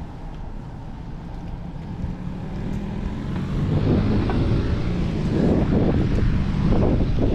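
Wind buffeting the microphone of a moving bicycle's camera over a low road rumble. It grows louder and gustier about three seconds in, as if the bike is picking up speed.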